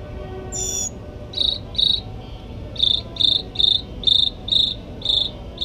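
Mockingbird singing. A high note comes about half a second in, then a run of short chirps at one pitch, repeated about twice a second.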